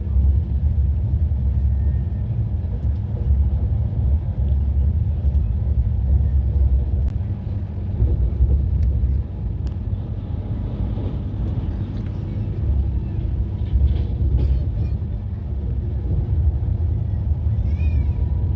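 Steady low rumble of a moving passenger train running along the track.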